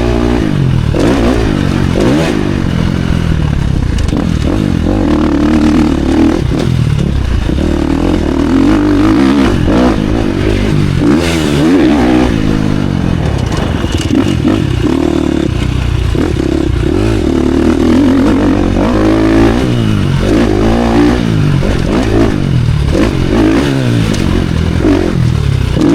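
Dirt bike engine revving hard and easing off again and again, its pitch rising and falling with the throttle and gear changes.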